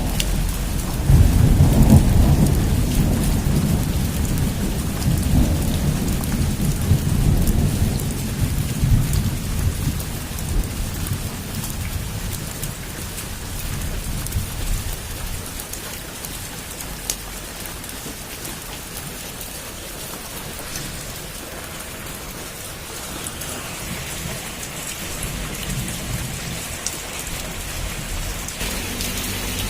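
Heavy rain on a roof with scattered drips. A long low roll of thunder starts about a second in and fades away over the next ten seconds or so.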